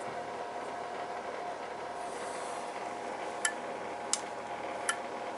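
Steady mechanical hum around an oil-fired boiler whose main control is failing to pull in its relay. From about halfway in, three sharp clicks come roughly two-thirds of a second apart.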